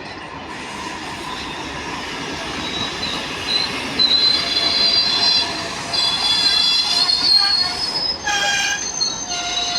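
Passenger train rolling through the station with its wheels and brakes squealing. High, steady squeals set in about three seconds in and grow louder over the train's rolling noise.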